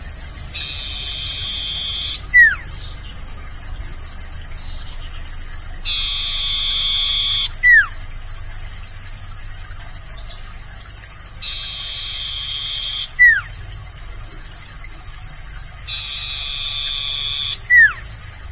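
Sirtu (common iora) singing its song four times, about every five seconds. Each phrase is a buzzy trill lasting about a second and a half, followed by a short, sharply falling whistle. A steady high hiss runs underneath.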